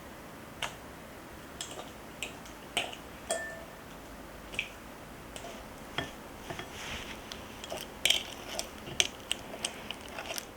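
Kitchen dishes and utensils clinking and knocking as they are handled, in irregular light strikes that come more often in the second half, one with a brief ring.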